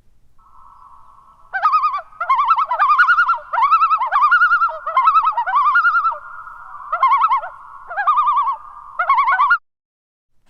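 Common loon calling: loud quavering, wavering notes in a series of repeated phrases over a steady held note. The calls stop abruptly near the end.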